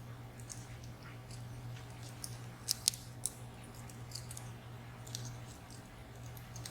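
Faint, scattered light clicks and ticks of small metal parts and tools being worked on a VSR dimple lock, a few sharper ticks close together about midway, over a steady low hum.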